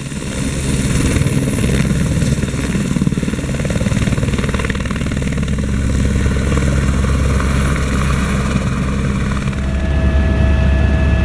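Helicopter turbine and rotor running steadily, a loud low drone with rapid rotor pulsing and a high whine. About nine and a half seconds in the sound shifts: the low hum grows stronger and steady whining tones come in.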